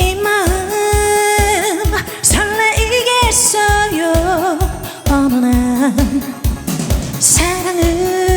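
A woman sings a trot song live, holding long notes with vibrato, over a backing track with a steady kick-drum beat.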